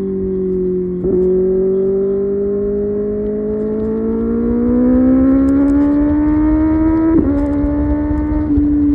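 Kawasaki ZX-6R's inline-four engine pulling at highway speed, its pitch climbing steadily as the bike accelerates, with a brief break and a small drop in pitch about seven seconds in. Wind rush sits underneath.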